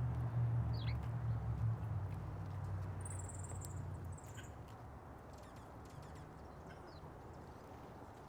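Small birds at a feeder giving short high chirps, with a brighter high call about three seconds in and faint scattered clicks of pecking and landing. Under them a low droning hum fades out about four seconds in.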